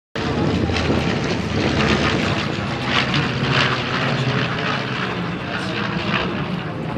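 Propeller airplane's engine droning steadily as it flies past, loudest a couple of seconds in; the sound starts abruptly at an edit.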